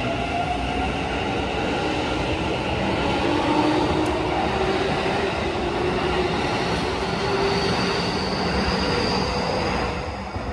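Keikyu electric commuter train accelerating away from the platform: the traction motors' whine climbs steadily in pitch, in several tones at once, over the rumble of wheels on rail. The sound falls away near the end as the last car leaves.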